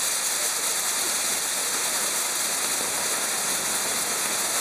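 Maltese ground fireworks (in-nar tal-art): spinning wheels of burning fountains giving a steady, dense hiss with no bangs.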